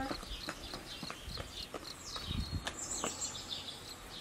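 Small songbirds chirping repeatedly in short, high notes, with a few light taps underneath.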